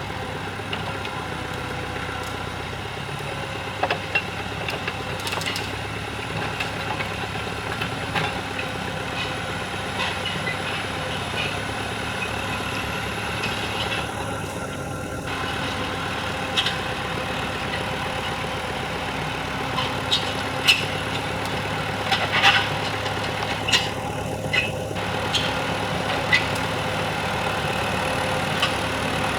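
Tractor engine running steadily while working a field, with sharp clicks and knocks now and then, more of them in the second half.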